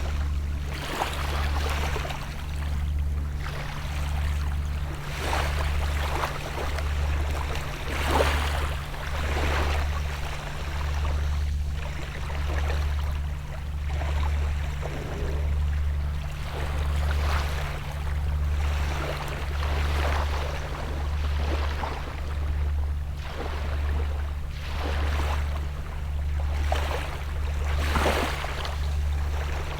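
Small sea waves washing and splashing on the shore every few seconds, over the low hum of a distant boat engine that throbs about once a second.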